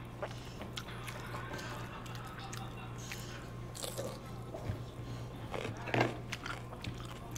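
Someone chewing and biting food close to the microphone, with many small clicks over a steady low hum, and a brief louder sound about six seconds in.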